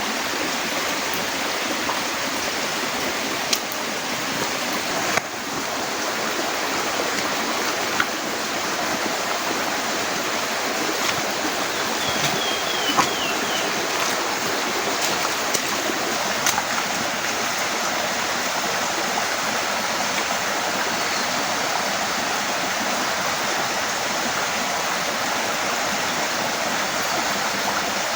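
Heavy rain falling steadily in a dense, even hiss, with a few sharper taps of drops striking close by and a brief run of faint high chirps about halfway through.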